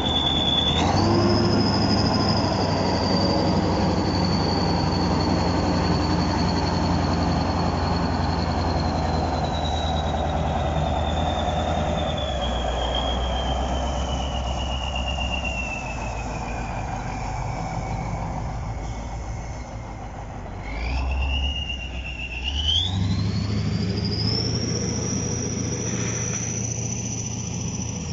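Heavy tractor diesel engine working under changing revs, with a high whine that rises and falls with it. The whine jumps up about a second in, slowly sinks over the next twenty seconds, then climbs again as the engine picks up near the end.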